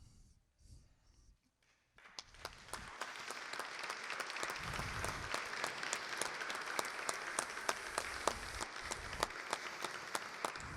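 An audience applauding, starting after about two seconds of near silence and carrying on steadily.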